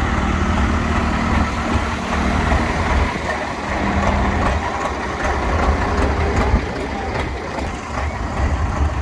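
Heavy vehicle engine idling steadily, with a constant deep low hum.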